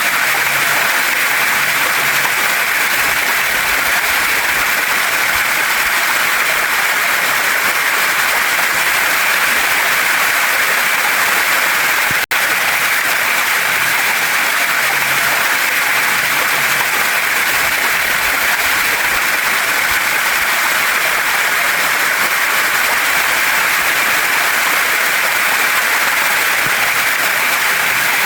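Waterfall and stream water rushing over rocks in a steady, unbroken hiss, with one split-second dropout about twelve seconds in.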